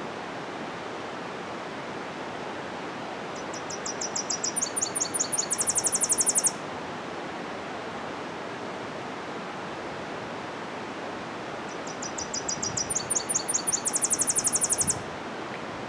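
Tennessee warbler singing two songs, each a run of high, sharp notes in three parts that speed up into a fast trill at the end. A steady rushing noise runs underneath.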